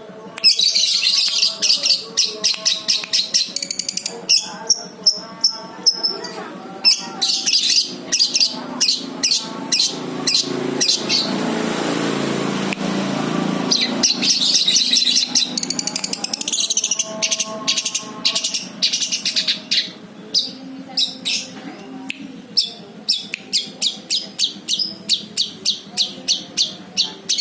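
Long-tailed shrike (cendet) singing loud, fast strings of sharp chirps in lovebird-like phrases, mimicking a lovebird's song. A rushing noise briefly covers the song about halfway through.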